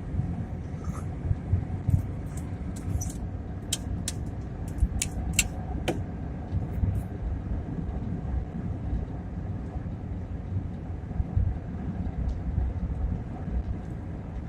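Car being driven on a highway: a steady low road and engine rumble. A run of short, sharp clicks comes between about two and six seconds in.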